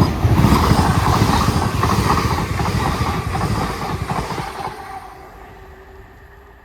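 Class 802 passenger train passing through at speed without stopping: a loud rush of wheels on rail with rapid clatter, fading away about five seconds in.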